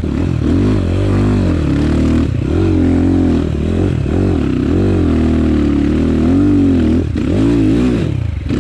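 Enduro motorcycle engine revving up and down in quick swells as the throttle is worked on rough ground, with short dips in between.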